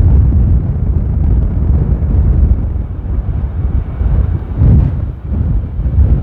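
Storm-force gusting wind buffeting the microphone: a heavy, uneven low rumble that surges and falls, with a strong gust about four and a half seconds in.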